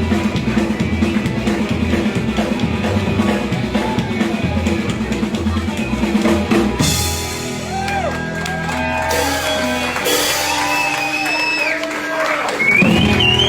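Live guitar, bass and drum-kit trio playing a driving rockabilly shuffle that stops about seven seconds in on a final chord with cymbal crashes, the chord left ringing. Whoops and a rising whistle from the audience come over the ringing chord near the end.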